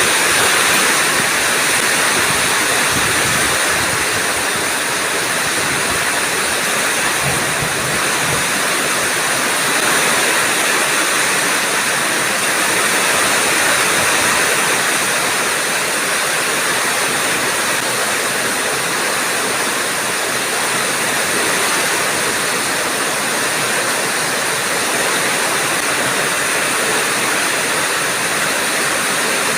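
Heavy rain pouring down steadily in a thunderstorm, a loud, even rush of water.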